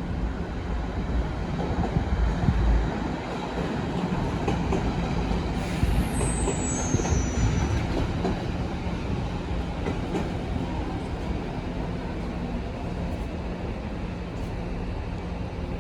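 DSB IC3 (Litra MF) diesel multiple unit moving through the station, a steady rumble with an even engine hum. About six seconds in there is a brief high squeal that steps down in pitch, typical of wheel or brake squeal.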